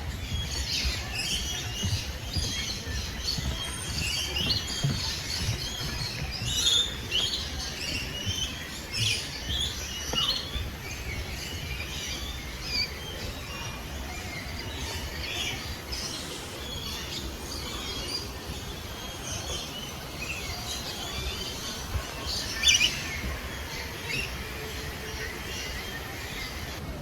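Many birds chirping and calling at once, short overlapping calls throughout, over a steady low rumble.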